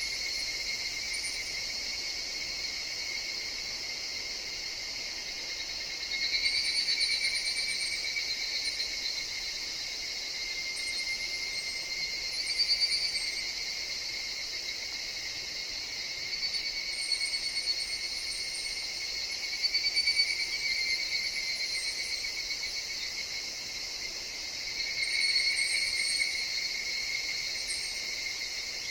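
Chorus of higurashi (evening cicadas, Tanna japonensis) in a forest, a steady ringing drone whose calls swell and fade every few seconds. Faint, short, very high chirps sound above it.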